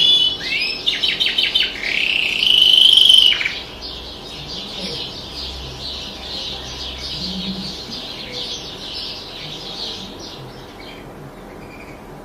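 Small songbird singing. Quick sweeping chirps and a long held whistle come first and are the loudest part. A fast, rapid-note chattering trill follows and fades out near the end.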